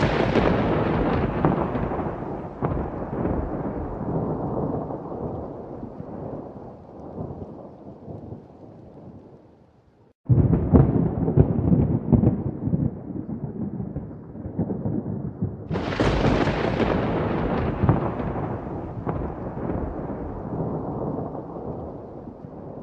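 Volcán de Fuego's eruption blasts: deep rolling rumbles, each starting suddenly and fading slowly. One begins at the very start, another about ten seconds in, and a third, sharper one about sixteen seconds in.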